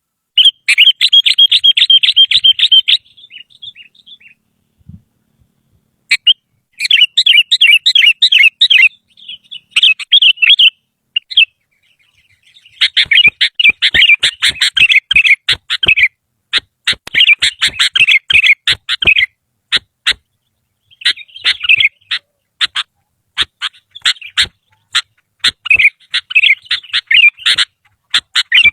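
Sooty-headed bulbul (kutilang) singing in bursts of rapid, warbling chirps a few seconds long, separated by short pauses.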